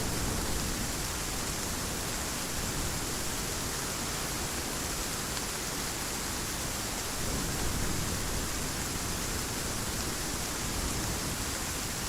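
Heavy rain falling steadily, an even, unbroken hiss, swelling slightly about seven seconds in.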